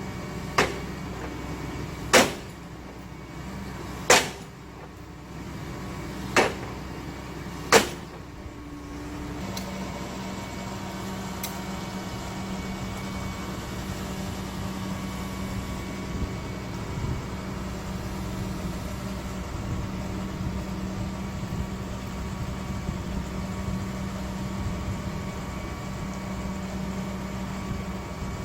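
Excavator's diesel engine running steadily, with five sharp knocks of stone being set in the first eight seconds. About nine seconds in, the engine note gets louder and holds steady.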